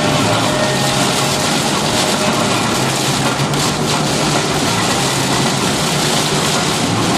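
Steady cabin noise of a car driving on a highway in a heavy rainstorm: tyres on wet road and rain on the car.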